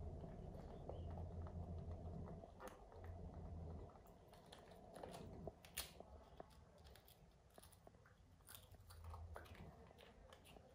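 Faint chewing as a toddler and a young macaque eat snack rolls, with scattered small clicks and crinkles. A low steady hum drops away about four seconds in.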